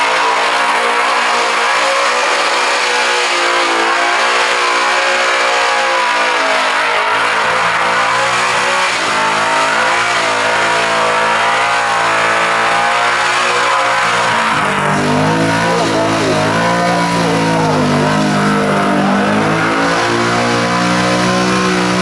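Tunnel-rammed engine of a VL Commodore held at high revs through a burnout, the revs rising and dipping over and over with the rear tyres spinning. About 14 seconds in the pitch settles lower and stays strong while the revs keep wavering above it.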